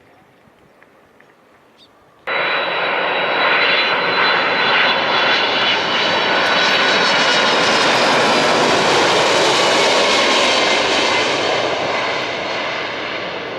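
Jet airliner engines passing low overhead on landing approach: a loud rushing noise with a high whine that starts abruptly about two seconds in and eases off slightly near the end.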